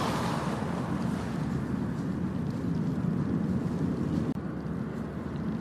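Ocean waves washing onto a beach, with a steady low rumble of wind on the microphone. The hiss of one wave's wash fades in the first second, and another wave builds near the end.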